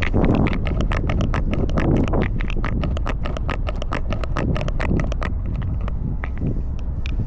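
Quick, sharp clicks and crackles right at a cat's collar camera as the cat moves, about seven a second, thinning out after about five seconds, over a low steady rumble.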